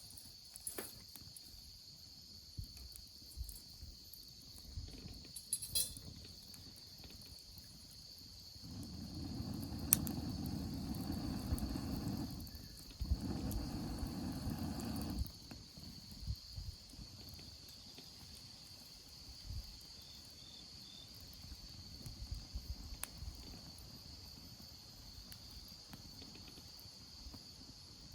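Insects, crickets by the sound, chirring steadily on one high pitch, with a few sharp isolated clicks. A low rushing noise rises for about six seconds in the middle, with a brief break partway through.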